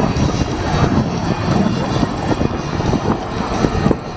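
MiG-17 jet fighter's turbojet engine heard from the ground as the aircraft flies its display: a loud, steady rumbling noise.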